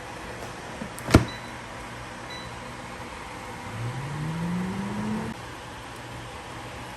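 Air fryer running with a steady low hum. A single sharp click about a second in, then a rising whine for a second and a half around the middle.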